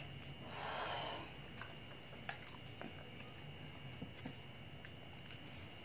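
Faint chewing of crisp raw green mango, with a soft rustle about a second in and a few faint clicks after it.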